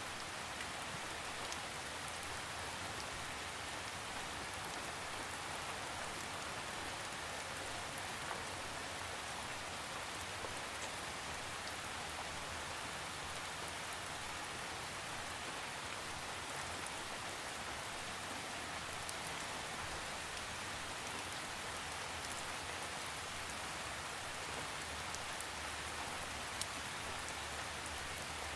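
Steady rainfall: an even hiss of rain with scattered individual drops ticking on a surface, no thunder.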